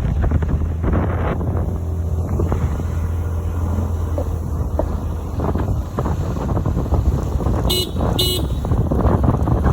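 Steady low rumble of a car driving on a rough road, with two short beeps of a car horn about eight seconds in.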